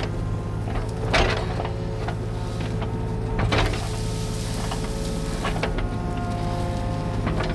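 Excavator's diesel engine running steadily, with higher machine tones that shift as it works and two sharp cracks, about one and three and a half seconds in.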